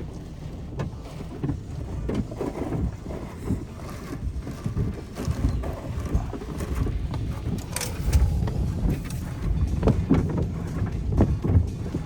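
Car wash equipment working over a car, heard from inside the cabin: a low, uneven rumble with irregular knocks and splashes, getting louder in the second half.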